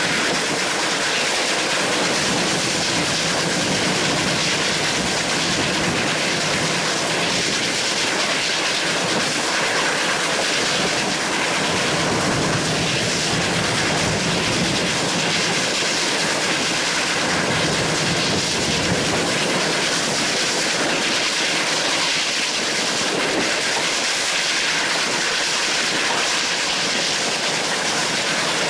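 Steady running noise of a moving train, its wheels running on the rails.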